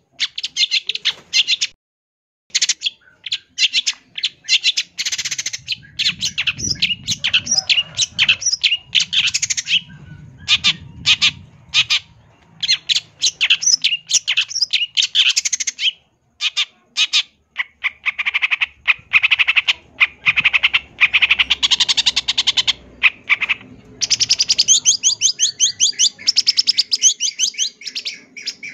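Long-tailed shrike (cendet) singing a long, varied song of rapid, harsh chattering and squawking phrases packed with short high notes, broken by brief pauses.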